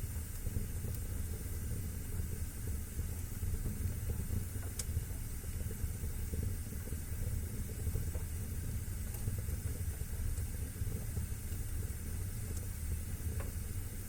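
Wood fire burning in a fireplace: a steady low rumble and hiss of the flames, with a few sparse sharp crackles, one about five seconds in and another near the end.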